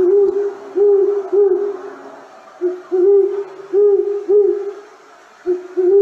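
Great horned owl hooting: short phrases of several deep hoots, a new phrase starting about every three seconds.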